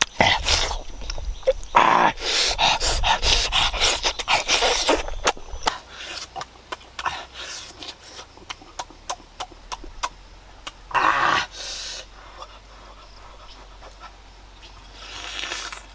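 A person eating noisily: hissy slurps and heavy breaths for the first few seconds, then a run of sharp chewing clicks, with another slurp about eleven seconds in and one near the end.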